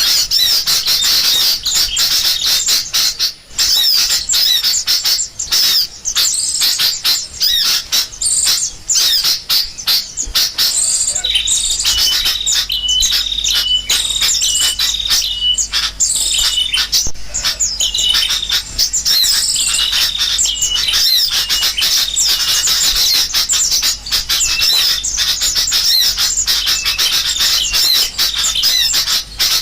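Bird-lure recording of sooty-headed bulbuls chattering in alarm, mixed with the calls of small songbirds: a dense, unbroken stream of sharp chips and chirps, with a run of repeated whistled notes midway.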